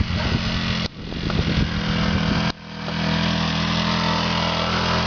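Dirt bike engine idling steadily, broken off abruptly twice, about a second in and again about two and a half seconds in, then running on evenly.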